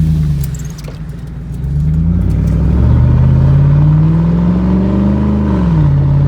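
Squatted pickup truck's engine accelerating, with a short rev near the start and then a long, steady climb in pitch. The engine drops back sharply near the end and runs on steadily.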